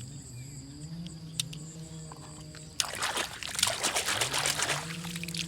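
Water splashing and sloshing for about two seconds from about the middle, as a toy vehicle is washed by hand in water.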